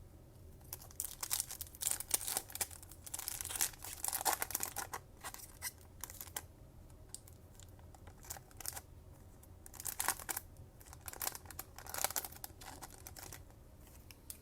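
A foil trading-card pack wrapper being torn open and crinkled by hand, in irregular bursts of tearing and rustling with quieter gaps between.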